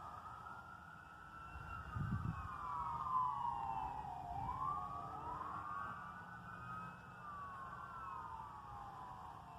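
Two emergency vehicle sirens wailing, each rising and falling slowly over a few seconds, overlapping out of step with each other. A brief low thump comes about two seconds in.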